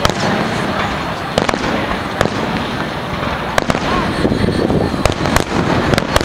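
Aerial fireworks display: sharp cracks of shells bursting at irregular intervals, about seven of them, over a continuous dense rumble of the show.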